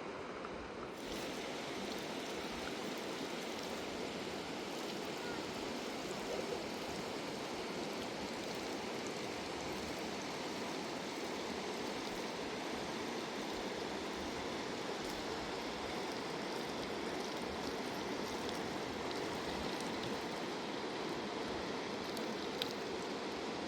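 Rushing river water, a steady, even rush that fills out about a second in.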